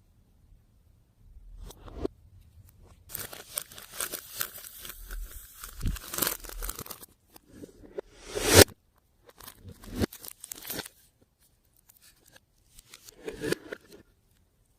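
Hands working slime and the things being mixed into it: crackly, tearing noises in irregular bursts, with the loudest sharp one about eight and a half seconds in.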